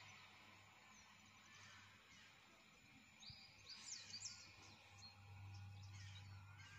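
Near silence: faint outdoor ambience with a low steady hum, and a few short high bird chirps about halfway through.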